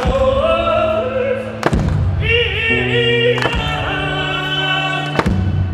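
Live gospel-style singing with held, sliding notes over a band's steady low accompaniment, with a sharp beat struck about every second and a half to two seconds.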